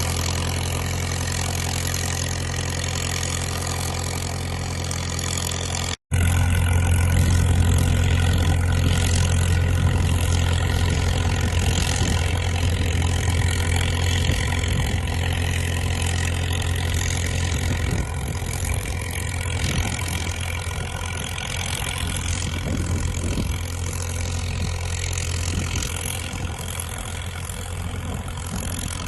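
Caterpillar crawler dozer's diesel engine running steadily with an even low hum. It drops out for a split second about six seconds in, then runs louder.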